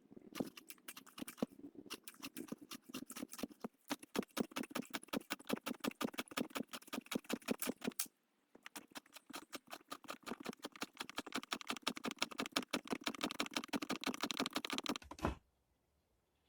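Homemade woodworking lathe turning a piece of wood, with a rapid, even clicking of about seven clicks a second. It breaks off briefly twice and stops with a single thump near the end.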